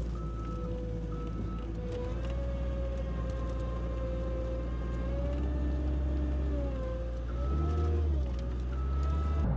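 Skid steer loader running with a steady low engine drone and a whine that rises and falls in pitch as it works. Its backup alarm beeps at a steady pulse near the start and again near the end while it reverses.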